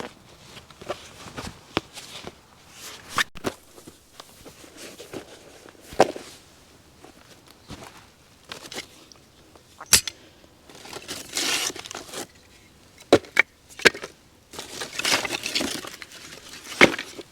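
Dry sticks snapping and kindling rustling as it is handled: about six sharp cracks spread through, with two longer stretches of crinkling and rustling, a little past the middle and near the end.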